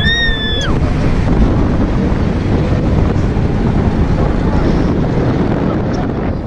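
Heavy wind rushing over the microphone of a spinning Mondial Turbine thrill ride, steady throughout. In the first second there is a short high-pitched shriek that rises, holds and drops away.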